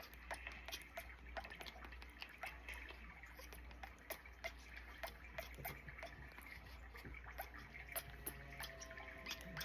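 Faint irregular clicking, several small clicks a second, over a low steady hum.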